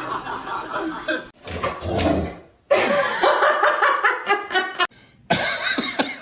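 People laughing and chuckling in a few short stretches, each cut off abruptly.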